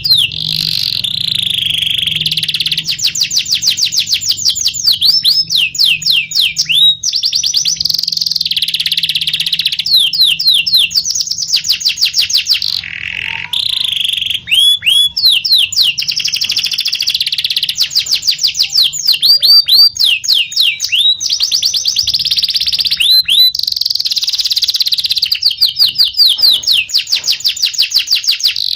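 Domestic canary singing a long, continuous song of fast trills and rolls, broken up by quick runs of sharp, repeated downward-sweeping notes.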